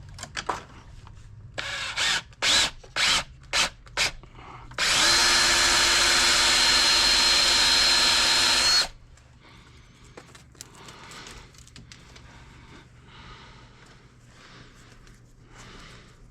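A drill-type power tool motor triggered in about six short bursts, then run steadily with a high whine for about four seconds before stopping abruptly. Quieter handling rustle follows.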